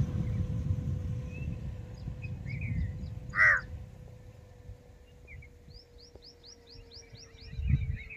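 A crow cawing once, loudly, about three and a half seconds in, among other birds calling. Near the end a small bird gives a fast run of about ten high, falling chirps. A low rumble runs under the first half.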